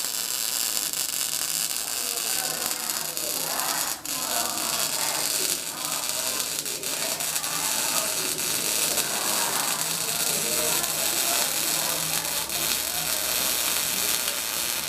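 Electric arc welding: the arc's steady, high crackling hiss, which cuts off abruptly at the very end as the arc is broken.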